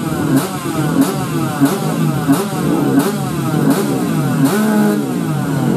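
Motorcycle engine revving over and over, its pitch dropping and climbing again in a regular cycle with a sharp crack about every two-thirds of a second.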